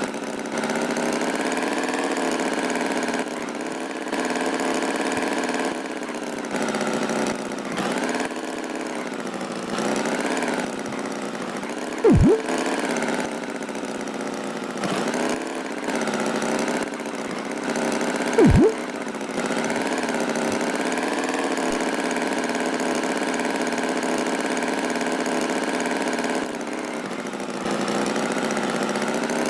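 Cartoon tractor engine running steadily at a low idle, its pitch wavering slightly. Twice, about six seconds apart, a short louder sound effect slides down sharply in pitch.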